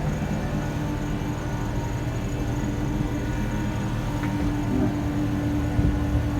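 Steady machinery hum aboard a ship, with a constant low drone and several fixed tones underneath.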